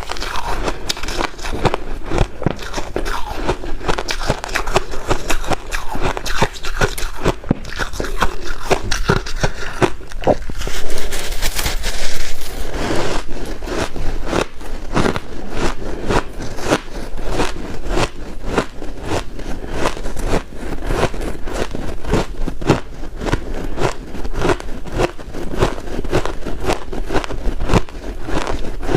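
White ice being bitten and chewed close to the microphone: a continuous run of crisp crunching and crackling, with louder surges about 11 and 12 seconds in.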